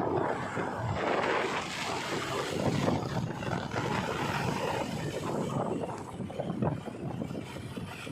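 Diesel engine of working heavy machinery running, with wind buffeting the microphone.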